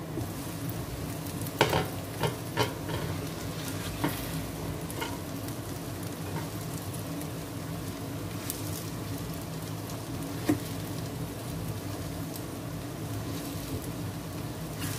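Egg, corn and cabbage omelette frying in oil in a nonstick pan, a steady sizzle. A few sharp clacks of the pan lid and spatula against the pan come in the first few seconds, and one more about ten seconds in.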